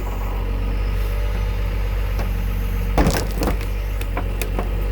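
Engine running steadily at idle, with a clank about three seconds in.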